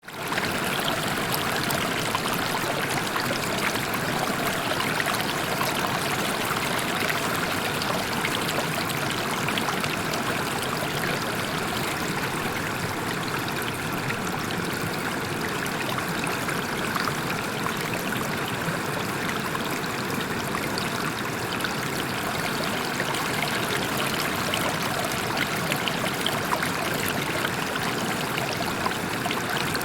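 Waterfall: a steady rush of falling, splashing water, even and unbroken.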